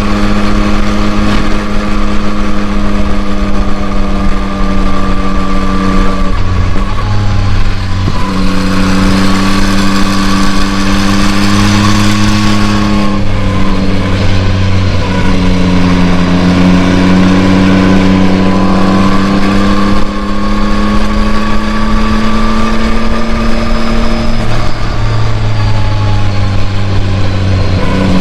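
2021 Yamaha MT-09's 890 cc inline three-cylinder engine on its stock exhaust, running loud and steady at moderate revs under 6,000 rpm while being run in. Its pitch holds for stretches and shifts a few times, with a rushing hiss swelling around the middle.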